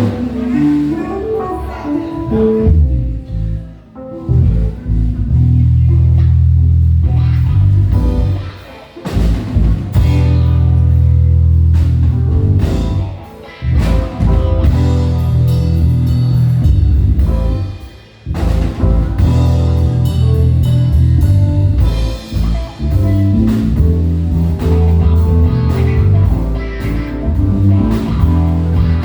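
Live band playing a blues-flavoured groove: guitar over bass guitar, drum kit and keys, with heavy held bass notes. The band stops short for a moment about every four to five seconds.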